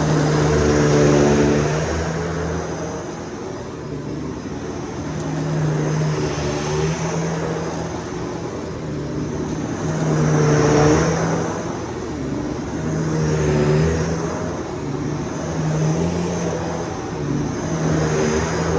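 Vacuum cleaner running, its motor hum swelling and easing every few seconds as it is worked back and forth.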